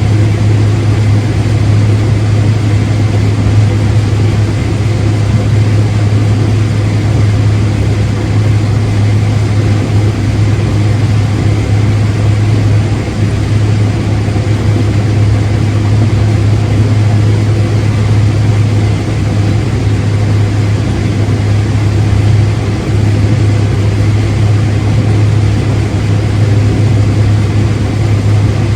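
Farm machine engine running at a steady speed: a loud, constant low hum with no change in pitch.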